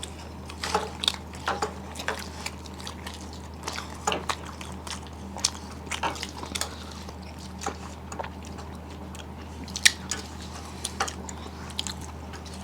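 Close-up eating sounds of people chewing soft Bengali milk sweets by hand: irregular wet mouth clicks and lip smacks every second or so, over a steady low hum.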